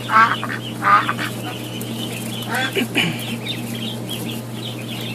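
Domestic duck quacking: two loud quacks in the first second and two more about three seconds in, over continuous high chirping and a steady low hum.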